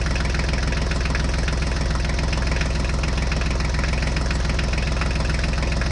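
Tractor engine idling steadily with an even, rapid knocking beat.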